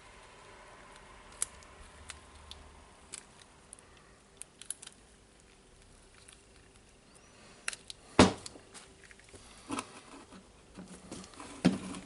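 Parts of a rotary hammer drill being handled and fitted by hand during reassembly: scattered light clicks and taps, with two louder knocks in the second half.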